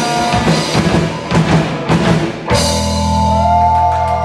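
Live rock band playing the closing bars of a song with drum kit and guitars, then hitting a final chord about two and a half seconds in that is held and rings on.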